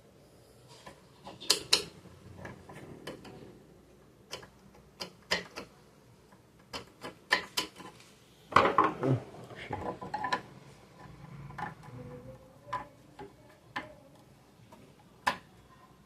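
Scattered metal clicks and clinks of a screwdriver and parts being handled while an Elgin household sewing machine is being opened up, with a louder clatter about halfway through.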